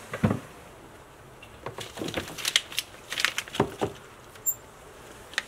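Light clicks and knocks of handling around snake cages: a heavier knock just after the start, then a quick run of clicks and taps between about two and four seconds in.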